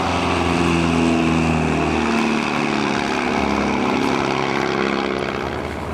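Propeller aircraft engine running in flight, a steady pitched drone that shifts a little in pitch.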